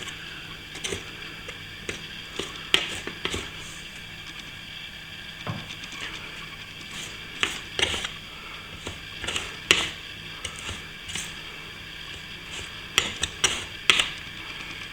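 Hand plastering tool scraping and knocking at a cracked plaster ceiling joint, removing loose material: irregular clicks and short scrapes, a few sharper knocks about three, eight, ten and fourteen seconds in.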